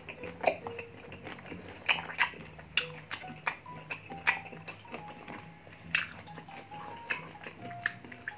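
Chewing crunchy raw green mango close to the microphone: irregular crisp crunches and wet mouth clicks, over quiet background music.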